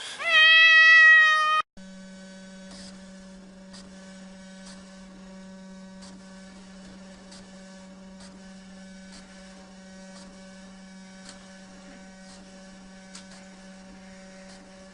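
A domestic cat gives one loud, drawn-out meow that rises at the start and lasts about a second and a half. After an abrupt cut, a steady electrical hum with faint regular ticks continues at a much lower level.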